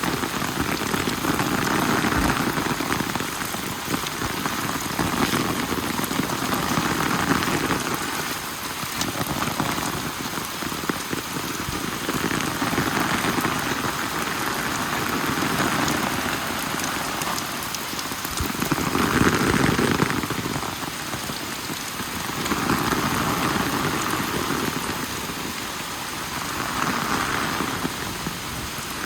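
Steady rain falling on surfaces, a dense hiss of drops that swells and eases every few seconds.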